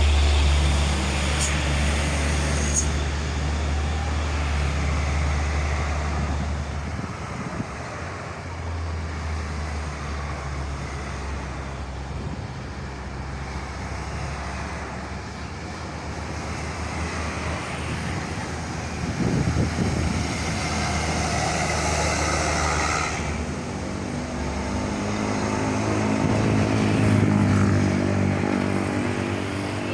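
Road traffic on a toll highway: motor vehicle engines running with steady tyre and road noise. A deep engine hum is strong for the first seven seconds or so, and another engine's pitched drone comes up near the end.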